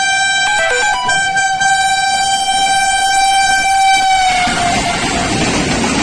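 Indian Railways electric locomotive horn held in one long steady blast that dips slightly in pitch and fades about four seconds in, as the loud rushing noise of a train passing at high speed takes over.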